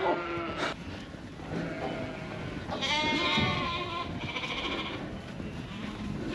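Sheep bleating: a long quavering bleat about three seconds in, with other bleats before and after it. It is the flock calling on weaning day, with ewes and lambs newly separated.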